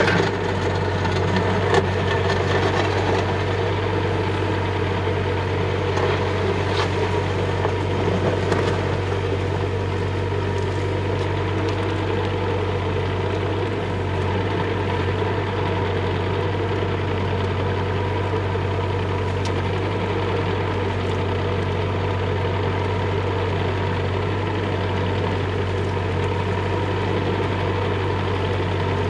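Bobcat E35 mini excavator's diesel engine running steadily, with a few sharp knocks in the first two seconds.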